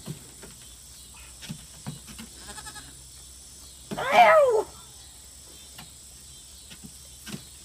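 A single loud animal call about four seconds in, under a second long, rising and then falling in pitch, with a few faint knocks around it.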